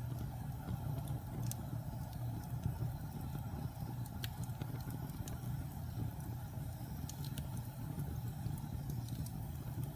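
Wood fire burning in a fireplace: a steady low rumble of flames with a few sharp crackles scattered through it.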